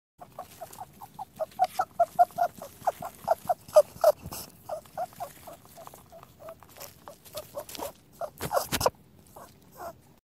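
Rabbit sound: a quick run of short, clipped, mid-pitched pulses, about four or five a second, with a few sharper clicks near the end.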